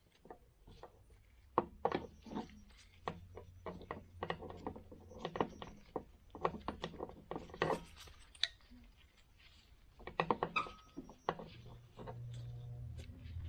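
Irregular sharp clicks and knocks of hand tools and metal parts being handled while working on a snowblower. A low steady hum comes in near the end.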